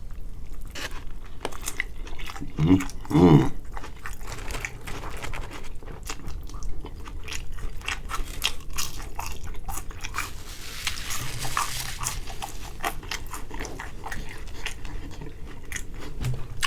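A person chewing and crunching crispy food close to the microphone, with many short crunches and mouth clicks, and a brief low hummed sound about three seconds in.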